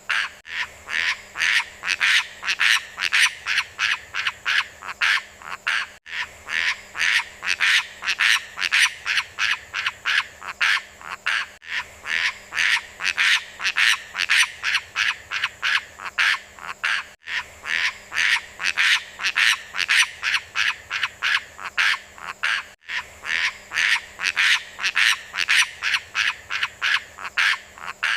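Bird call, the 'beo lumut' named in the title: a rapid, even train of sharp chirps, about three or four a second, repeating without pause. It sounds looped, with a tiny gap every five and a half seconds or so.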